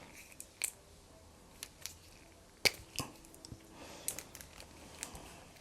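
Pens and art supplies being handled on a desk: scattered small clicks and taps, the sharpest about two and a half seconds in.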